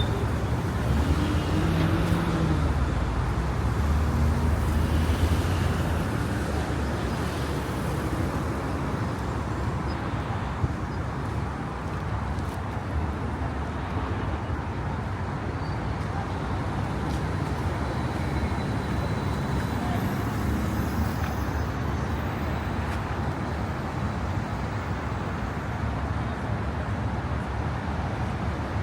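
City street ambience: a steady wash of road traffic, with passers-by talking faintly, mostly in the first few seconds.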